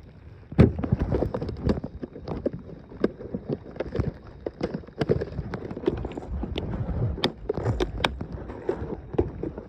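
Fishing gear being packed into a box: an irregular run of clicks, knocks and clatter as items are handled and set down, starting about half a second in.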